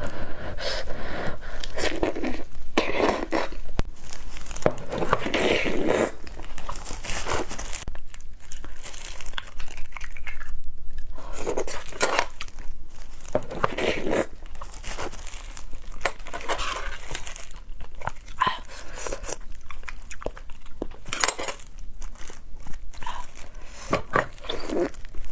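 Close-miked eating of beef bone marrow: irregular biting, chewing and tearing sounds with wet crunches.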